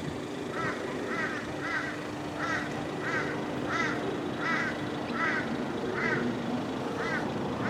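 A bird calling over and over, about ten short calls at roughly one and a half a second, with a steady low hum underneath that stops about two-thirds of the way through.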